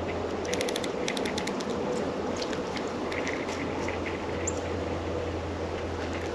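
A steady low hum and rush of outdoor background noise, with small songbirds at a feeder making a quick run of sharp high ticks about half a second in, then a few short, high chips and chirps.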